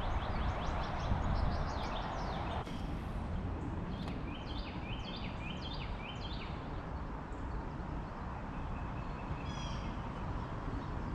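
Wind buffeting the microphone in a steady low rumble, with small birds chirping in quick runs of short falling notes. A rushing noise runs underneath for the first two and a half seconds, then stops suddenly.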